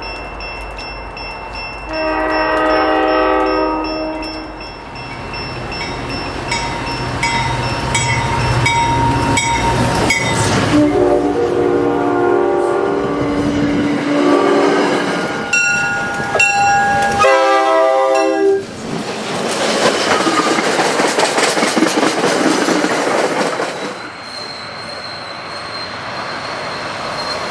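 Locomotive air horns sound three blasts, the middle one long, over a bell ringing steadily. From about two-thirds of the way through, a train rolls past with a steady rush of wheels on rail and a thin, high wheel squeal near the end.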